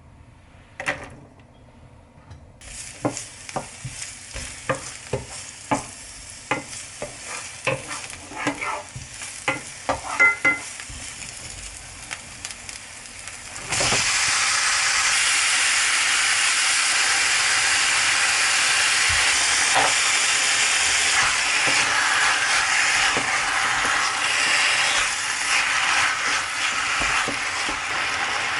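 Light, irregular clicks and knocks over a faint hiss, then about halfway through a loud, steady sizzling starts suddenly as food goes into a hot oiled pan and fries.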